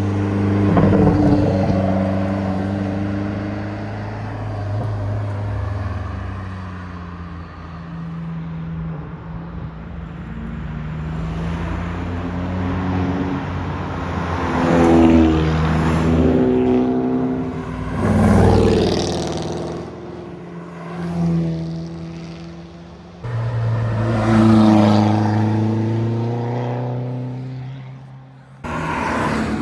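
Car engines on a twisty mountain road, several passing one after another. Each engine climbs in pitch as it revs up, then drops off as it eases or shifts, with the loudest passes about a second in and around the middle and near the end.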